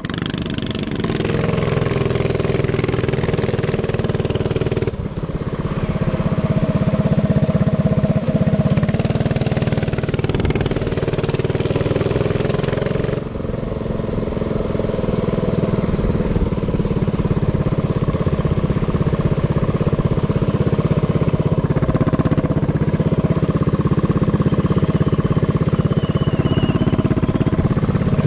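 Small single-cylinder minibike engine running at speed while being ridden. The engine note drops and picks up again twice, about five seconds in and near the middle.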